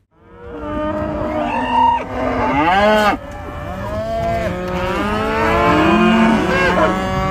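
Several cattle mooing at once, many overlapping calls that rise and fall in pitch.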